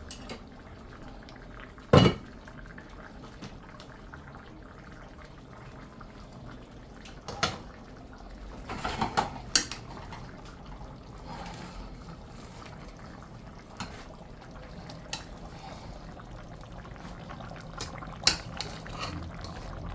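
A metal pot, its lid and a spoon clanking at intervals as a pot of rice is checked, with a single sharp clank about two seconds in the loudest. Under the clanks runs a steady low simmering noise from the stove.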